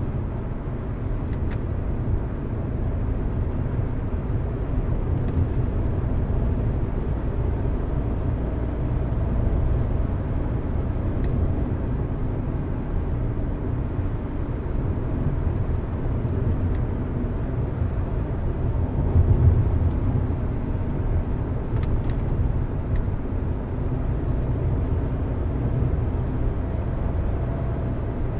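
Car driving along a road: a steady low rumble of engine and tyres, swelling briefly about two-thirds through.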